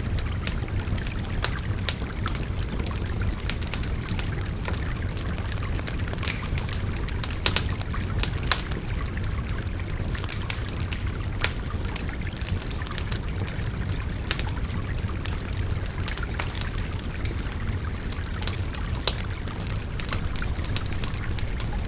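Wood fire crackling with frequent sharp pops, a few louder than the rest, over the steady rush of a babbling river.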